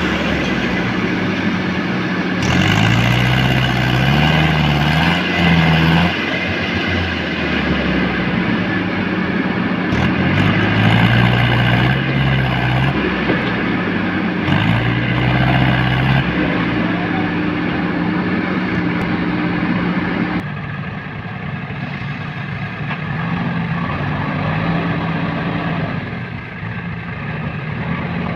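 JCB 3DX backhoe loader's diesel engine running and revving up in several surges as the machine works, then settling to a lower, quieter run about two-thirds of the way through.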